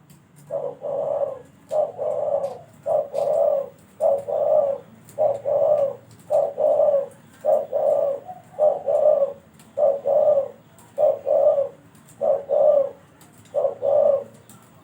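A trained dove cooing over and over: about a dozen low coo phrases, each less than a second long, repeated at an even pace of roughly one a second.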